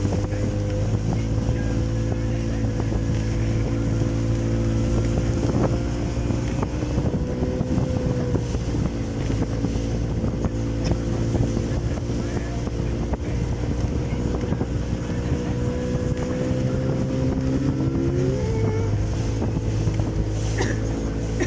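Small boat's outboard motor running steadily under way, with wind on the microphone. Near the end the engine note shifts briefly, with a short rising tone.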